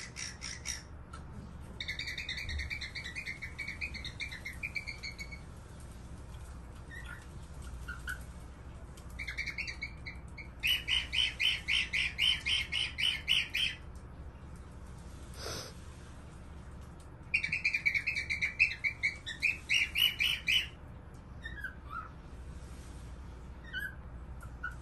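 Cockatiel calling in three runs of rapid repeated chirps, about four notes a second, the later two runs louder, with a few single chirps in between.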